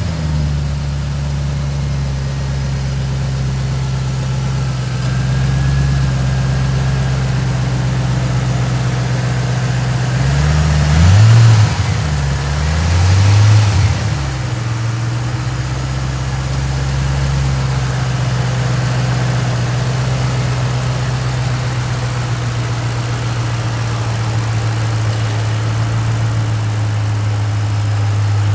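2007 Ford Mustang GT's 4.6-litre V8 idling steadily, blipped twice in quick succession about ten seconds in, each rev rising and falling back to idle.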